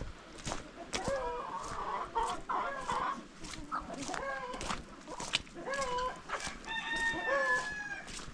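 Chickens clucking and calling, several short bending calls with a longer drawn-out call near the end, over frequent sharp taps.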